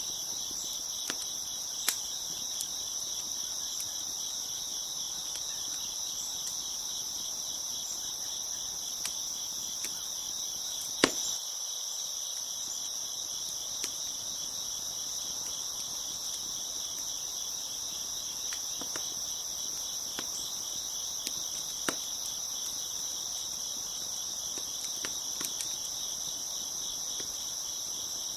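Crickets chirping in a steady, continuous high trill, with scattered sharp pops from a crackling wood fire. The loudest pop comes a little over a third of the way in.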